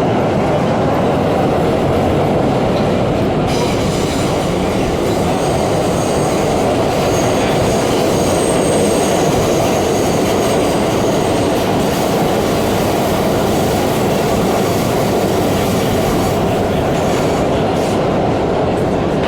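R32 subway car running at speed through the tunnel, a loud steady rumble of wheels and motors. A thin, high wheel squeal rises over it from about four seconds in and fades some eight seconds later.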